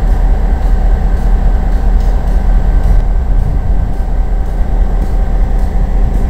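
A passenger train in motion, heard from aboard: a steady, loud rumble of wheels on the track, heaviest in the low end.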